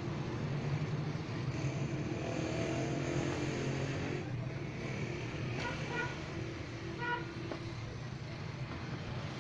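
A vehicle engine running steadily, with a few short high beeps about six to seven seconds in.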